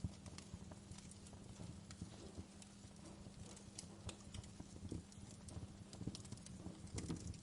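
Wood fire crackling: irregular small pops and snaps, a few sharper ones around five and seven seconds in, over a low steady background.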